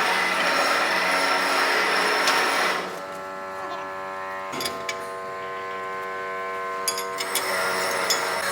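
Powered metalworking machine running with a steady hum of several tones, with a louder, rougher noise over it for about the first three seconds and again from about seven seconds in, and a few sharp clicks.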